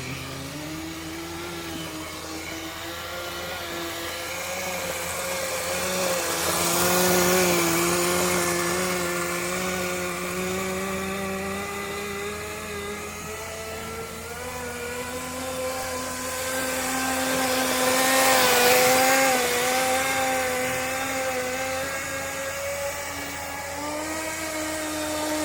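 Small nitro engine of a Kyosho Blizzard RC tracked vehicle running, its pitch drifting up and down with the throttle and swelling louder twice, about seven and nineteen seconds in.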